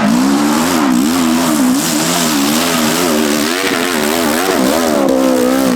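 Dirt bike engine revving, its pitch rising and falling over and over as the throttle is worked.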